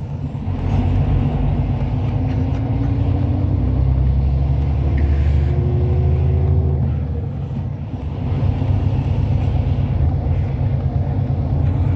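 Hyundai Universe Space Luxury coach under way, heard from inside the cabin: a steady low engine and road rumble, with a faint tone slowly rising above it. The level dips briefly about eight seconds in, then picks up again.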